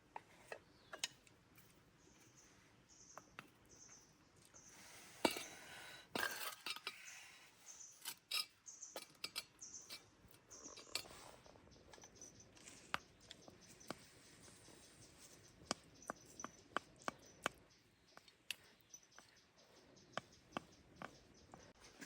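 Faint, irregular clinks and taps of utensils against pots and dishes, busiest between about five and eleven seconds in.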